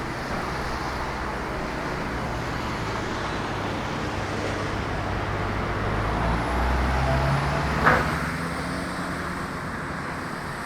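Road traffic on a city street: a motor vehicle's engine swells as it passes, loudest about six to seven seconds in. A short sharp knock or clack comes about eight seconds in.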